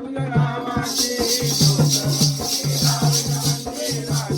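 Jakhadi folk music: a hand drum beating a quick, steady rhythm, with shaken metallic jingles keeping time over it. The jingles drop out for about the first second, then come back in.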